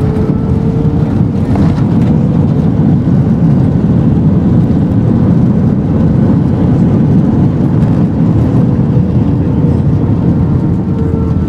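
Airbus A321 cabin noise during landing: a loud, steady low rumble of the jet engines and rushing air.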